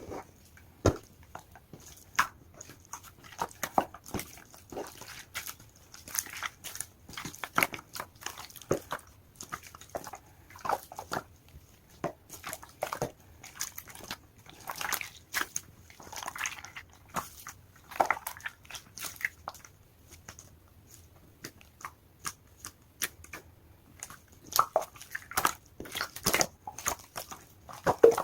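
Large clear pink slime being squeezed and stretched by hand, making irregular sticky clicks and short wet squelches.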